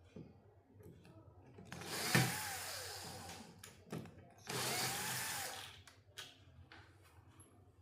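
Small power tool whirring in two short bursts of about a second each, its pitch rising and then falling each time, with light clicks and taps of handling between.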